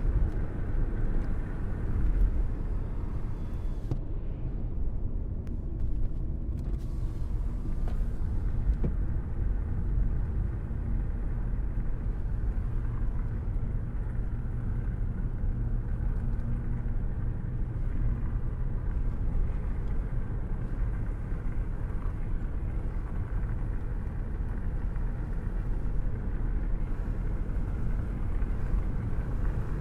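Steady rain with a continuous low rumble underneath, without let-up.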